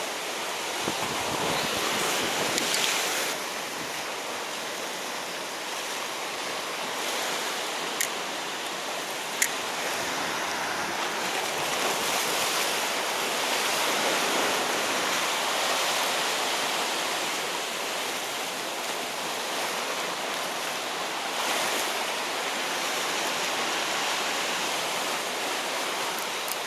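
Sea waves washing against a rocky shore, a steady rushing that swells and eases, with wind on the microphone. Two sharp clicks cut in briefly about eight and nine and a half seconds in.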